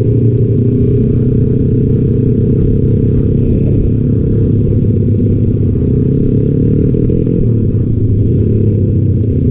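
Motorcycle engines running steadily at low road speed, heard from the rider's seat of a Honda Sonic bored up to 175 cc, with other motorcycles riding close by.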